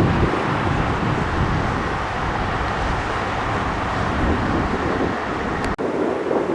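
Jet airliner engine noise, a loud steady roar with gusty wind buffeting the microphone. It breaks off abruptly near the end and comes back with less low rumble.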